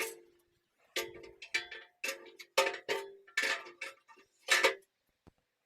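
Metal clanking: about nine sharp, irregularly spaced strikes on steel, each with a short ring, stopping about a second before the end.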